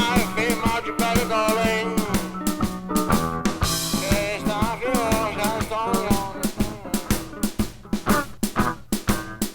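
Blues song played with a drum kit keeping a steady beat under a melody line that bends in pitch, giving way to repeated chords near the end.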